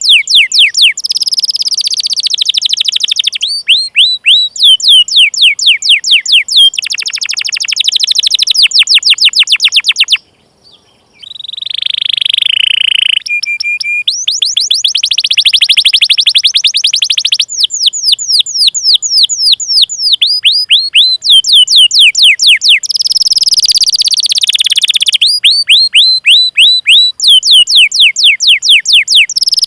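Domestic canary singing a long, loud rolling song: fast runs of sharp downward-sweeping 'cuit cuit' notes. About a third of the way in it breaks off for about a second, then gives a buzzy trill and a short steady whistle before the fast runs resume.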